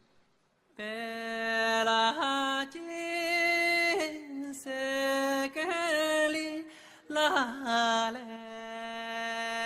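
A man's voice singing a slow melody in long, steady held notes, starting about a second in.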